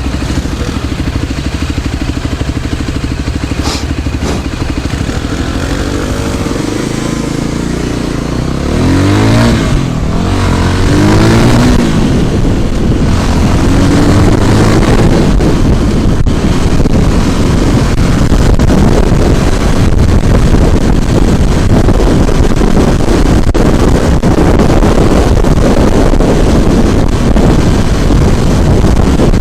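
Small motorbike engine running steadily, then revving up and down about nine seconds in as it pulls away. A loud, even rush of riding noise over the running engine follows.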